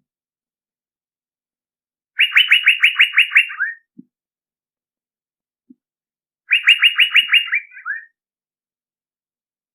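Male Asian fairy-bluebird (cucak biru) call used as a bird-trapping lure. It comes twice, about four seconds apart. Each time it is a quick run of about eight sharp, bright notes, ending in a couple of lower, falling notes.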